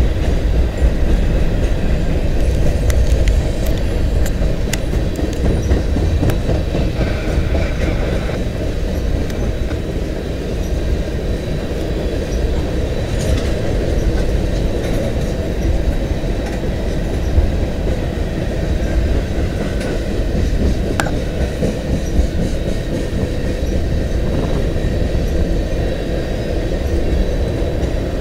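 Freight train of tank cars rolling steadily past: a continuous low rumble of steel wheels on rail, with scattered clicks as wheels cross rail joints and a couple of brief, faint wheel squeals.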